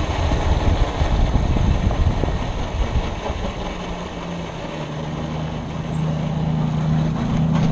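Coleman CT100U mini bike's small engine running under a low rumble while riding. About halfway through it settles into a steady, even idle.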